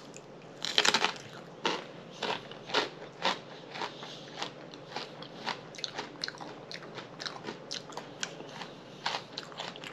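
Close-up crunching and chewing of a raw jalapeño stuffed with pineapple cream cheese: a loud crunchy bite about a second in, then crunchy chewing at about two chews a second that grows fainter, with a few louder crunches near the end.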